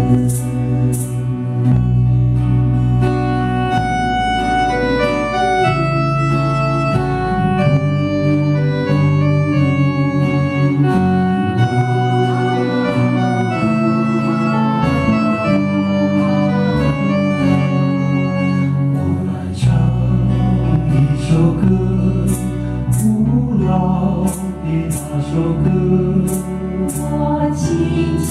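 Instrumental interlude of a slow ballad's accompaniment: sustained organ-like keyboard chords over a bass line, with a melody line on top. Light cymbal strokes come in near the start and again near the end.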